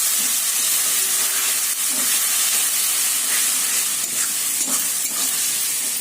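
Onion, spice and ginger-garlic paste masala sizzling in hot oil in a kadai, with a steady high hiss. A spatula scrapes and stirs it a few times while it is sautéed.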